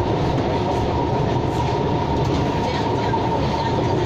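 Siemens-built SMRT C651 metro train running steadily along the track: an even rumble with a steady high whine.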